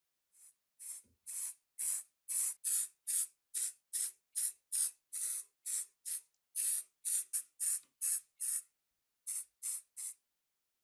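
Aerosol spray can sprayed in quick short bursts: about twenty brief hisses at roughly two a second, with a short break near the end.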